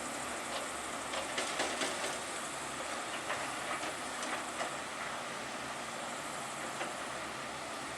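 Heavy machinery working: a steady mechanical din with scattered clanks and knocks.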